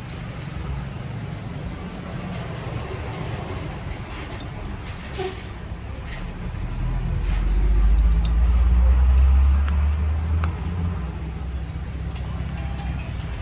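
Low rumble of a passing motor vehicle, building about six seconds in and dying away near eleven seconds, over a steady low hum with a few faint clicks.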